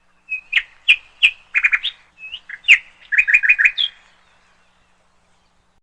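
A bird chirping: a rapid run of about fifteen short, sharp chirps over three and a half seconds, some of them quick downward flicks, then it stops.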